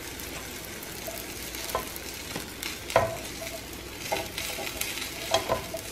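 Pumpkin-apple-banana fritters sizzling steadily in vegetable oil in a non-stick frying pan. A few short taps and scrapes of a plastic spatula against the pan come through as the fritters are lifted out, the clearest about three seconds in.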